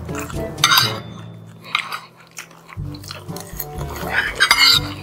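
Close-up sounds of people eating fried chicken and rice: chewing and biting, with short clicks of fork and spoon on the plates, over background music.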